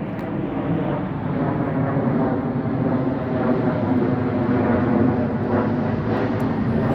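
A loud, steady engine drone with a faint humming pitch, swelling slightly about a second in.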